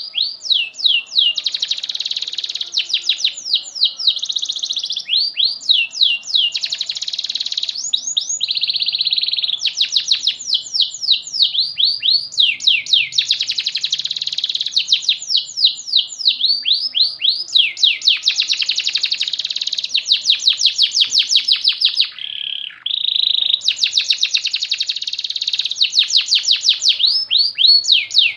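Domestic canary singing almost without pause: long runs of fast trills, each built from quick falling notes, changing from one trill to the next with only brief breaks.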